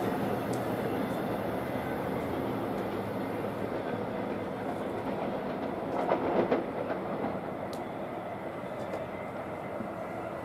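MARC commuter train's passenger cars rumbling on the rails as the train pulls away, the noise slowly fading. A brief cluster of wheel clacks comes about six seconds in.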